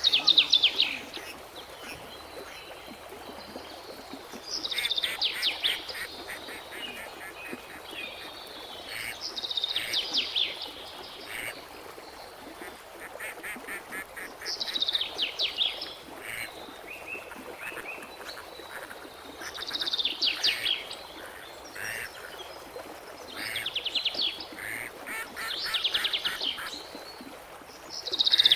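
A bird repeating a loud chattering call, each one a quick run of rattling notes about a second long, falling slightly in pitch, about every five seconds over a steady background hiss.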